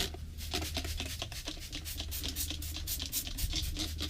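Quick, repeated rubbing and scratching strokes of a rag being worked over the van's wheel well with glass cleaner, a few strokes a second, to strip off wax residue. A steady low hum runs underneath.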